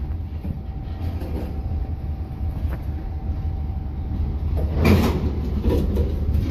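Freight train of covered hopper cars rolling slowly past: a steady low rumble of steel wheels on the rails, with a loud clank about five seconds in.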